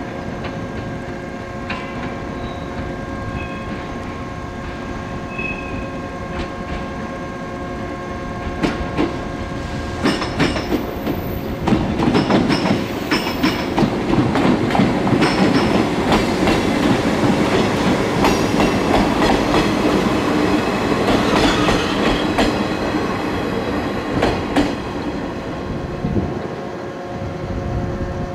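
JR West 105 series electric train arriving, its wheels clacking over rail joints and points. The clacking grows louder from about ten seconds in, with a few brief high squeals, and eases off near the end. A steady hum runs underneath.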